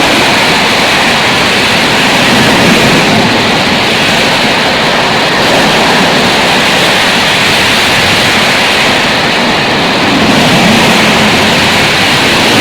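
A passenger train passing close at high speed: a loud, steady rush of wheels on the rails and air, swelling slightly near the end.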